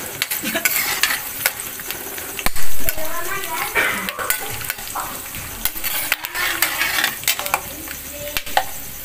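Peanuts frying in hot oil in a metal kadhai, a steady sizzle, while a metal ladle stirs them with repeated scraping clicks against the pan and one louder clatter about two and a half seconds in.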